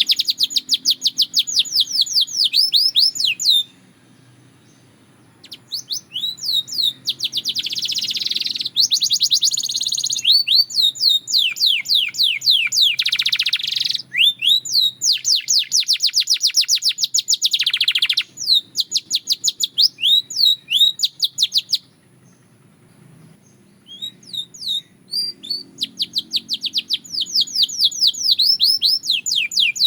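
A canary singing long phrases of fast trills, rapid runs of repeated high notes, pausing briefly about four seconds in and again around twenty-two seconds in.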